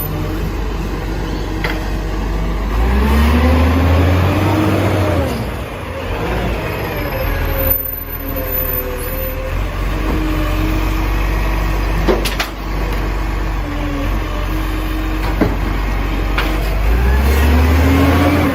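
Garbage truck engine running steadily, revving up and back down about three seconds in and again near the end, with a few short sharp clicks.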